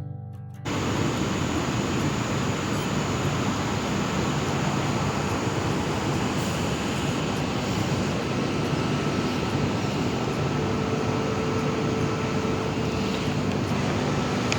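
Steady rushing noise with a low hum, like a running vehicle or machine, starting abruptly just under a second in and holding level throughout.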